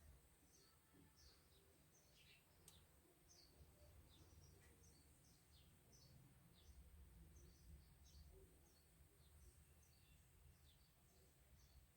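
Near silence, with faint birds chirping: many short, quick falling chirps, about two a second, over a faint low hum.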